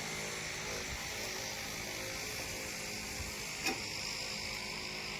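Diesel machinery running steadily, as a backhoe loader or tractor engine at work, with one sharp knock about three and a half seconds in.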